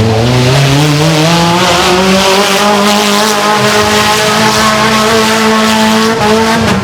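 Mini monster truck engine revving up over the first couple of seconds, then held at high revs while the truck spins donuts, dropping off near the end.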